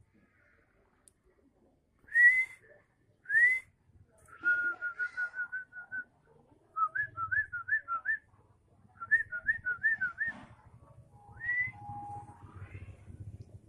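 White-rumped shama singing: two loud rising whistles, a fast warbling run, then two runs of quickly repeated looping whistled notes and a last rising whistle.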